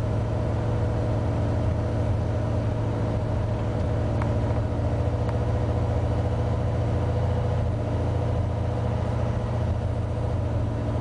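1986 Ford F-150's fuel-injected 302 V8 idling steadily after a cold start, with a misfire.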